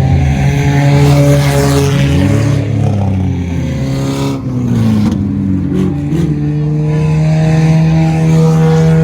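Race car engines running at once as cars go round the track. One engine's pitch drops as a car passes about two seconds in, then another engine's pitch climbs slowly through the rest.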